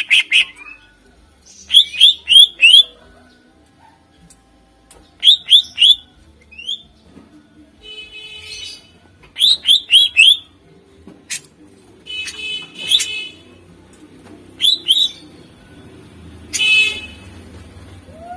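Green leafbird (cucak ijo) singing: loud groups of three or four quick sweeping whistled notes, repeated every few seconds, with a few harsher rattling phrases between them.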